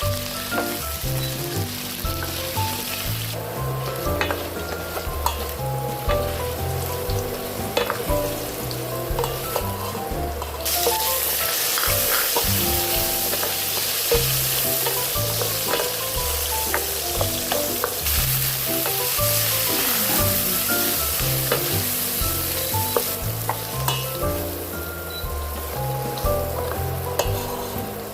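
Food sizzling as it fries in a pan, with short clicks of stirring now and then. Background music with a bass line plays over it. The sizzle gets louder for a stretch in the middle.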